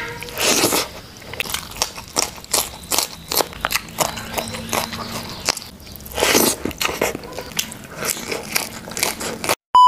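Close-miked mukbang eating: crisp, repeated crunching and chewing of raw vegetables such as long beans and lettuce, with louder bites about half a second in and about six seconds in. A steady electronic beep starts right at the end.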